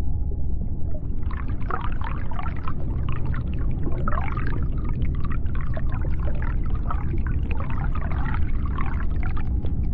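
Underwater sea sound: a steady low rumble with scattered clicks, and from about a second in a long run of gliding calls that rise and fall in pitch, fading out near the end.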